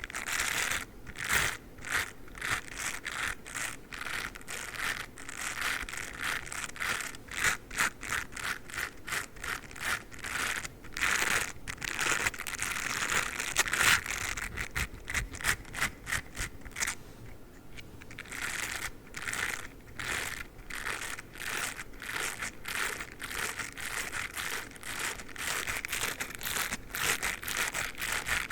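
A dog toothbrush making rapid scratchy brushing strokes, one after another, with a short pause about two-thirds of the way through.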